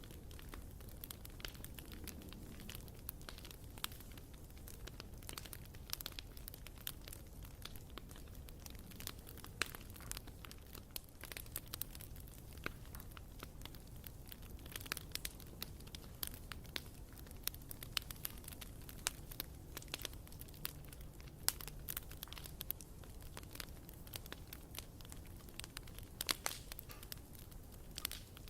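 Bonfire burning: irregular sharp crackles and pops of burning wood over a low, steady rumble of the flames.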